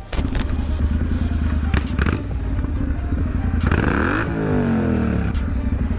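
Motorcycle engine running steadily with a rapid, even firing beat. Around four seconds in comes a hiss and a sweep falling in pitch, like something passing close by.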